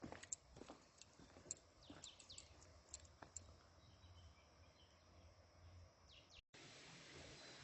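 Faint outdoor ambience with small birds chirping briefly several times and a few light clicks, then a sudden break just after six seconds into a steadier faint hiss.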